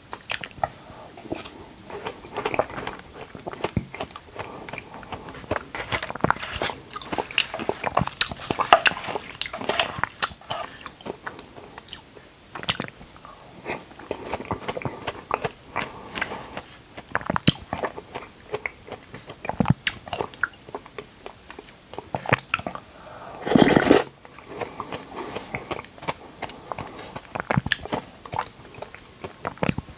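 Close-miked mouth sounds of chewing soft diced red dragon fruit with a creamy topping: wet smacking and sharp mouth clicks in quick irregular runs. One louder half-second burst comes about three-quarters of the way through.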